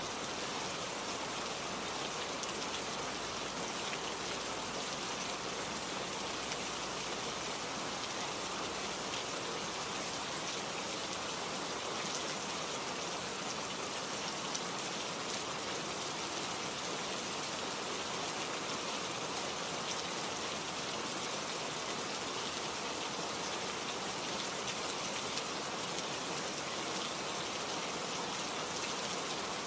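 Steady rain falling and pattering on a surface, an even hiss with fine scattered drop ticks and no letting up.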